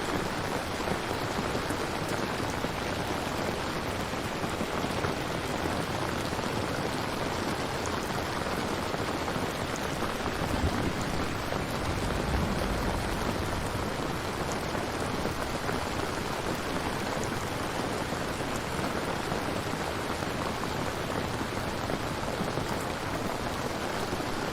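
Steady, dense rainfall, an even hiss of drops on surfaces, with a low rumble swelling briefly about halfway through, like distant thunder.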